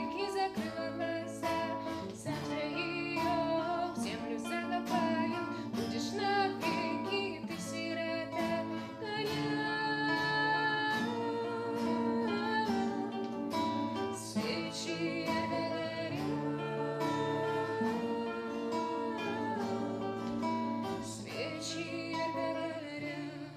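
Acoustic guitar playing the closing bars of a song, picked notes with some voice-like singing over them, dying away at the very end.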